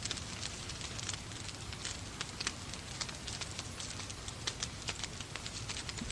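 Wood fire in a fireplace crackling, with many irregular sharp pops over a steady hiss of rain and a low rumble.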